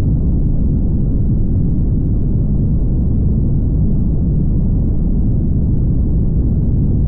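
Steady low road rumble of a car driving on a highway: tyre and engine noise that holds even throughout, with nothing above a low hum and hiss.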